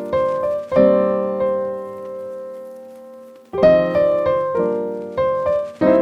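Background piano music: slow chords struck and left to ring out, with a long held chord in the middle.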